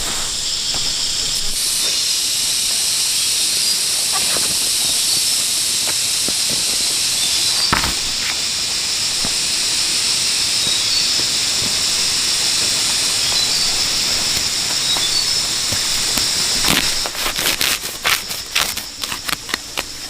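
A steady high-pitched hiss, with a quick run of sharp clicks and knocks in the last few seconds.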